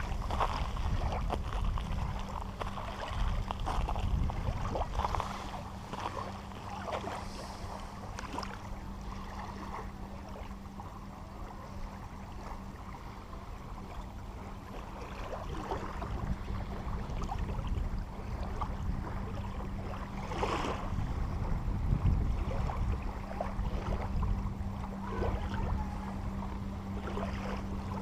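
Outdoor water and wind noise with a low rumble and a steady low hum underneath, broken by scattered short sounds.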